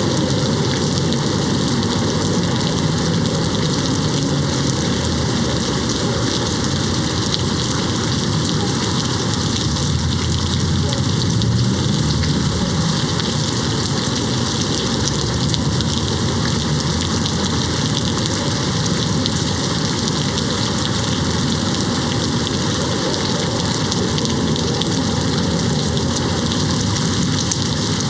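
Steady rain hitting a window: an even, unbroken rush of drops.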